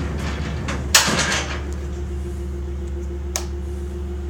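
A single loud metal clunk about a second in, with a short ringing tail, as a part of the aluminum truck body is shut or latched. A light click follows near the end, over a steady low hum.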